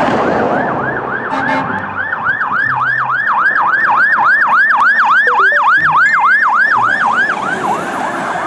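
Fast yelping siren of a toy fire truck, its pitch swooping down and back up about three times a second. A rushing hiss sits under it during the first second.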